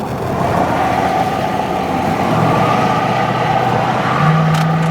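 Vehicle on the move heard from inside the cab: engine and road noise growing louder as it picks up speed. A steady low hum steps up in pitch about four seconds in.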